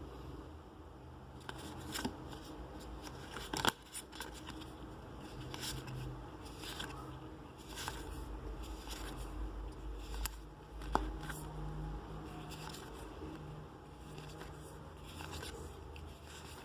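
Trading cards and packaging being handled: scattered light clicks, taps and rustles, with a sharper click a little before the quarter mark and another about two-thirds through.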